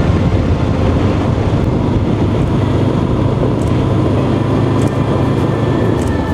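Honda CB500X parallel-twin engine running at a steady cruising speed, with a constant rush of wind and road noise.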